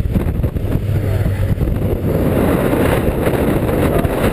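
Storm-force wind rushing and buffeting the microphone over a running motorcycle engine; the wind noise grows heavier about two seconds in.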